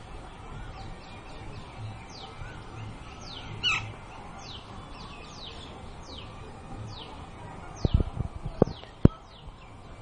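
Birds calling outdoors: short high notes that slide downward repeat about twice a second, with one louder call a little over three seconds in. A few sharp knocks come close together between about eight and nine seconds in.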